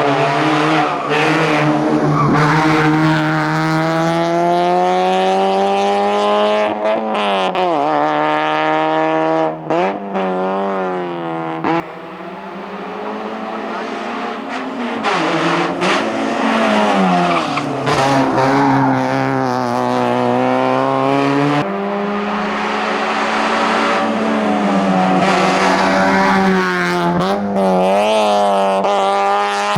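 Citroën Saxo VTS's 1.6-litre 16-valve four-cylinder engine at full throttle on a hillclimb run. The revs climb again and again, dropping sharply in pitch at each gear change. A short lift just before the middle lets the engine note fall and quieten before it pulls hard again.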